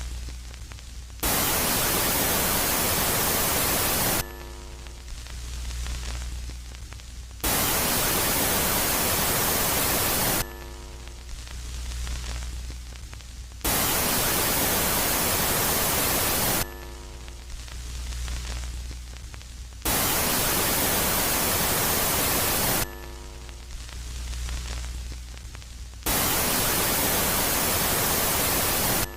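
Synthesized space-ambient sound cycling between a quiet phase and a loud phase: five blasts of loud, even static hiss, each about three seconds long, come about every six seconds. Between them a quieter low hum holds, with a brief cluster of steady tones near the start of each quiet stretch.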